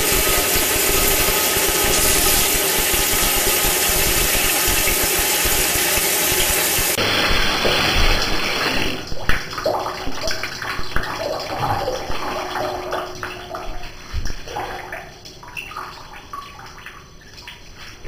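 Tap running into a bathtub, cut off abruptly about seven seconds in, followed by irregular splashing and sloshing of bathwater that fades out.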